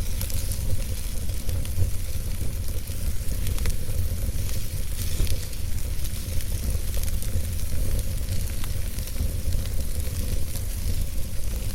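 Wood fire burning in a fireplace: a continuous hiss and low rumble of the flames with frequent small crackles and pops from the burning logs.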